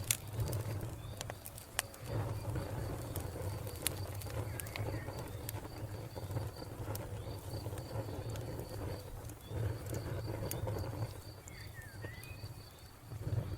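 Wood fire crackling with sharp pops over a low steady rumble, while a cricket chirps in a steady run of quick high pulses. A few short falling bird chirps come in near the end.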